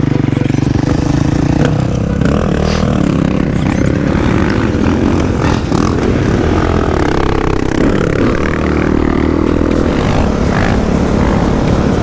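Dirt bike engine running hard as it is ridden, its pitch rising and falling as the rider revs and shifts, with scattered knocks and clicks.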